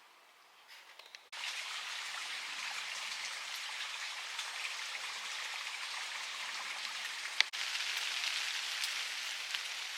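Steady, dense hiss of water that starts abruptly about a second in, after near silence, and breaks with a sharp click about seven and a half seconds in before carrying on.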